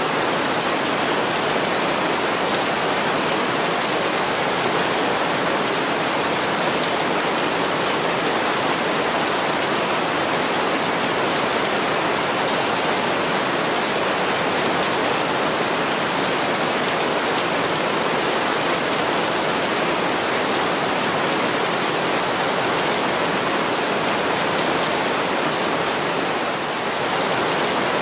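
Heavy rain pouring steadily onto window glass, an even hiss of water with a brief slight lull near the end.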